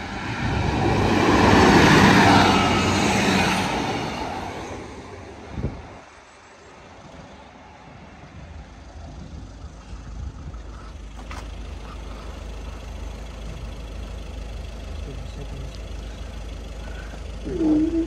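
A train passing over the level crossing at speed, its noise building and dying away within about five seconds. A steady low rumble follows, and near the end a single steady tone starts.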